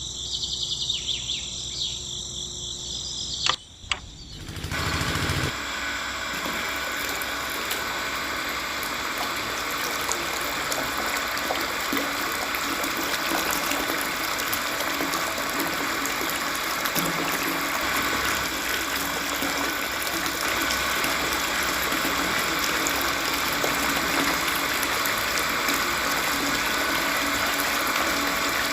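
Small DC motor water pump on a toy tractor is switched on with a click about four seconds in, then runs steadily, pumping water.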